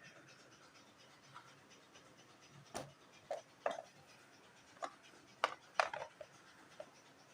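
A run of short, sharp scratches and knocks, about eight of them at irregular intervals, beginning roughly three seconds in, over a low background hiss.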